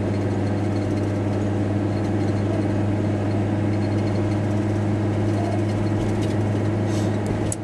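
Steady low drone of a VW T4 Transporter van heard from inside the cab as it is driven, engine and road noise with an even hum, and a couple of short clicks near the end.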